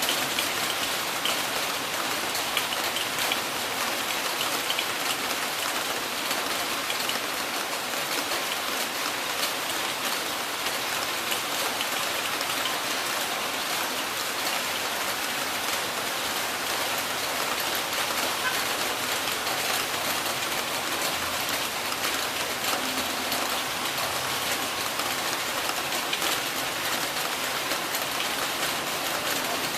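Heavy rain falling steadily, a dense patter of drops on hard surfaces with no let-up.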